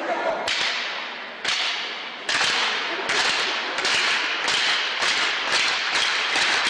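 Ice-hockey skate blades scraping and carving on ice, one sharp hiss with each stride, about one every 0.7 seconds.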